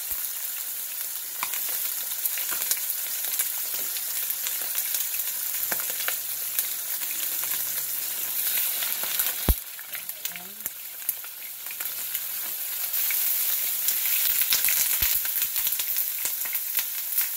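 Chicken pieces frying skin-down in hot oil in a nonstick wok: a steady sizzle with scattered crackles and pops. There is a sharp click a little past halfway, and the sizzle grows louder from about three-quarters in as more pieces go into the pan.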